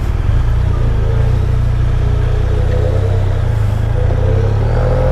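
Motorcycle engine running steadily at low revs, a deep even rumble with a faint tone that rises a little after the first second.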